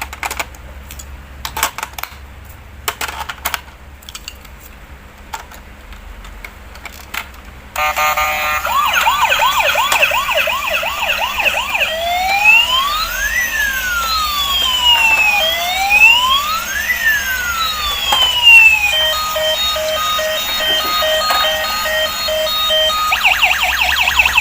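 Battery-powered toy ambulance: a few plastic clicks and knocks from handling it, then about eight seconds in its electronic siren comes on loud, cycling through a fast warble, a slow rising-and-falling wail and a stepped beeping pattern before the fast warble returns.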